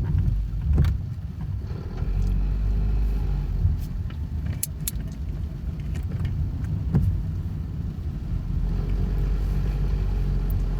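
A car engine running with a steady low rumble, with a few short clicks and knocks.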